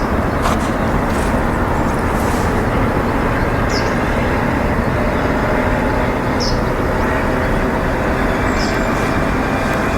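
Steady outdoor background rumble, with a few short high bird chirps spread through it at intervals of about three seconds.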